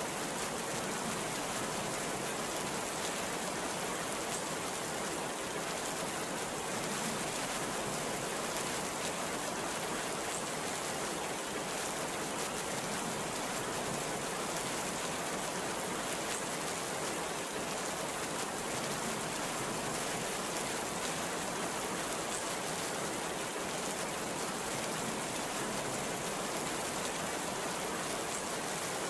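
Very heavy rain pouring down, a steady, even hiss.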